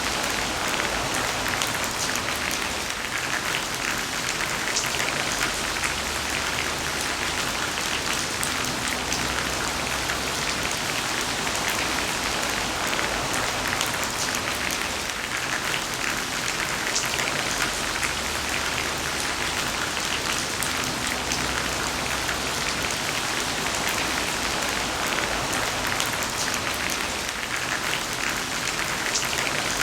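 Heavy rain falling steadily, a dense even hiss of drops striking a surface with fine individual drop ticks through it.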